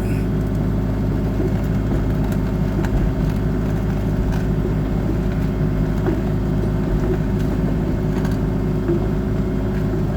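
Excavator's diesel engine running steadily under hydraulic working load as the boom eases a suspended toolbox lower. Faint short squeaks come now and then over the steady drone.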